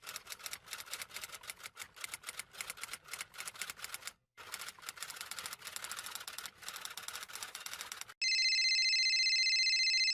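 Typewriter sound effect: rapid clattering keystrokes for about eight seconds, broken by a short pause about four seconds in. Near the end a louder electronic cellphone ring starts, a steady ring of several pitches at once.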